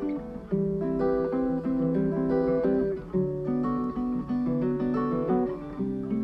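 Acoustic guitar picking a steady pattern of single notes, instrumental music without singing.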